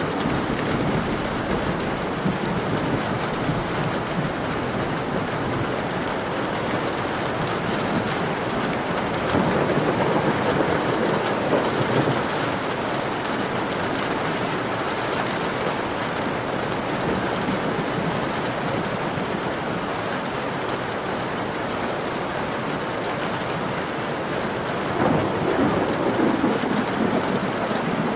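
Rain falling steadily on a window glass, with two low swells of thunder rumbling, one about ten seconds in and one near the end.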